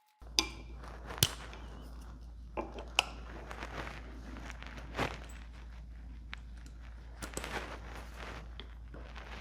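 Scattered sharp clicks and knocks of tools and engine parts being handled, over a steady low hum.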